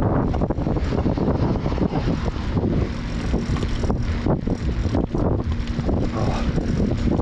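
Wind buffeting the microphone while cycling, a steady low rumble, with a faint steady hum joining about three seconds in.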